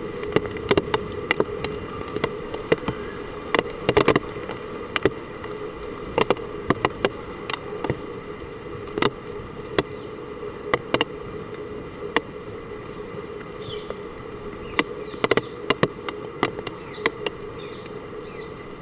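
Heavy raindrops or drips striking a hard surface in sharp, irregular knocks, several a second, over a steady hum.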